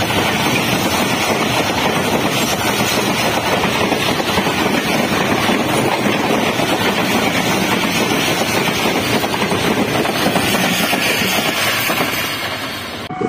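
Passenger train coaches rolling past close by at speed: a steady rush and rumble of steel wheels on rail that eases off about twelve seconds in.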